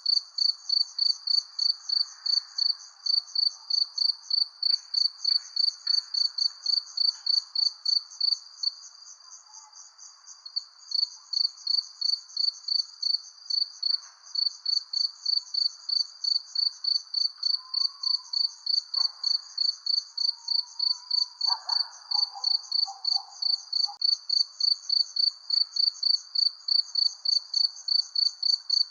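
Crickets chirping at night in a steady, rapid train of evenly spaced high chirps. The chirping briefly drops away about a third of the way in, then resumes.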